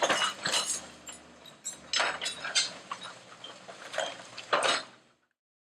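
Demolition debris from a house being torn down, clattering and clinking in a series of sharp crashes, then cutting off suddenly about five seconds in.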